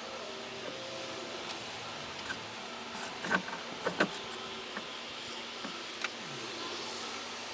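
A few short, light knocks and clicks, the loudest three about three to four seconds in, over a steady background hum.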